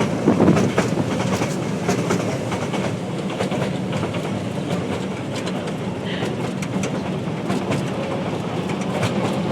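Train running along the track: a steady rumble with many short clicks from the wheels on the rails.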